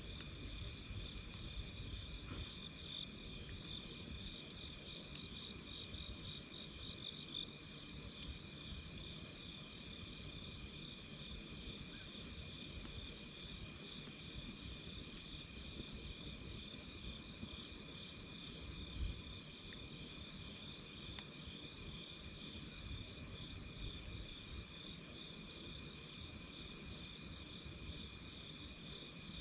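A steady chorus of chirping insects in two high pitches, pulsing without a break, over a low rumbling noise, with a few faint ticks and one short thump about 19 seconds in. No music box is heard.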